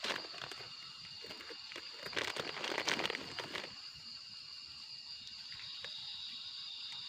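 Night insects calling steadily in a high, even chorus. About two seconds in, a burst of rustling and crinkling handling noise lasts just over a second.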